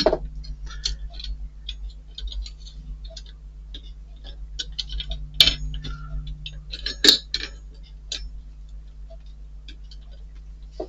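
Small model-kit parts being handled and fitted together, giving scattered light clicks and clinks, with two sharper clicks a little past the middle.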